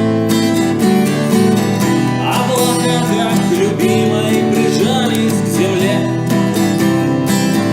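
Live acoustic guitar strumming chords in a steady rhythm. From about two seconds in to about five and a half seconds, a wavering melody line with vibrato rises over it, then the guitar carries on alone.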